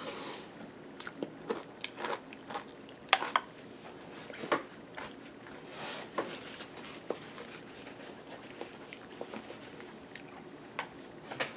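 Chewing a mouthful of crunchy granola in yogurt: irregular crunches, roughly one every second or so, with the sharpest about three seconds and four and a half seconds in.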